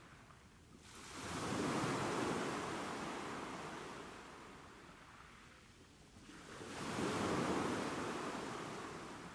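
Ocean waves breaking on a shore: two waves, about six seconds apart, each a rising rush of surf that fades away slowly.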